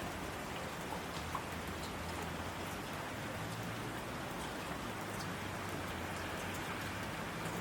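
Steady rain falling, with scattered individual drop ticks over the even hiss and a faint steady low hum underneath.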